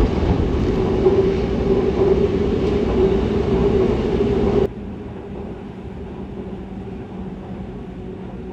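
Train running, a steady rumble with a droning hum; about halfway through it drops abruptly to a quieter stretch of the same rumble.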